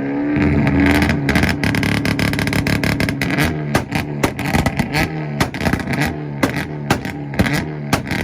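Hyundai Veloster's engine revved up and held on its two-step launch limiter, the exhaust cracking and popping about four times a second from a few seconds in.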